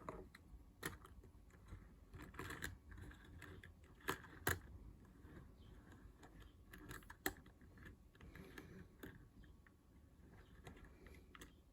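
Faint, scattered small clicks and taps of a die-cast toy van being handled, with a few sharper clicks at irregular intervals.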